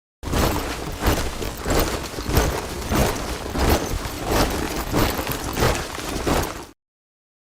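A body of soldiers marching in step, boots striking the ground together in a steady beat of about three steps every two seconds. It starts a moment in and cuts off abruptly about a second before the end.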